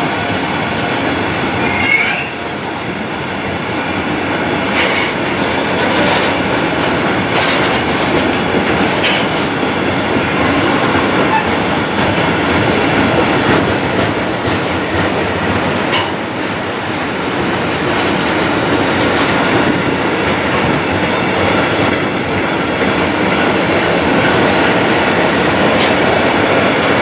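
Container freight wagons rolling steadily past on the rails: a continuous rumble with scattered wheel clicks over rail joints, and a brief wheel squeal about two seconds in.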